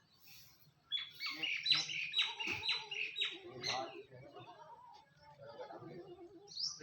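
A bird squawking: a quick run of about eight harsh, high calls starting about a second in, followed by fainter, lower calling.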